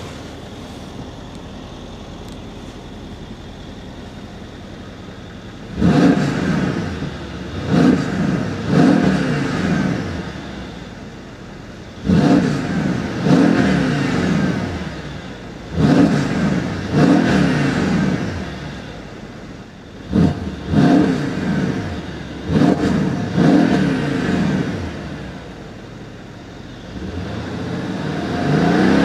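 Mercedes-AMG 5.5-litre twin-turbo V8 of a 2014 E63 AMG S, heard from the driver's seat, idling steadily for about six seconds, then blipped in park about a dozen times in quick groups of two or three, each rev rising and dropping back to idle. Near the end it is held on a slower, longer rise.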